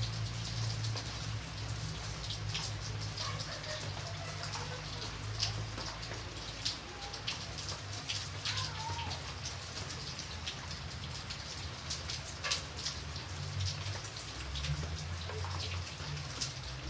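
Steady rain falling, with individual drops striking close by as scattered sharp ticks over the even hiss, and a low steady rumble underneath.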